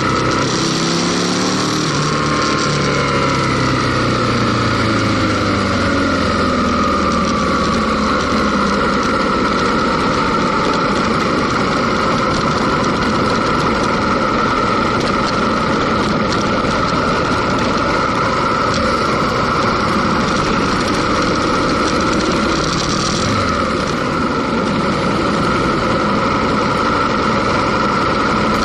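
Aprilia Tuono Factory motorcycle engine heard on board: the revs fall steadily over the first eight or nine seconds as the bike slows, then it runs at a steady pace under a dense, even rushing noise.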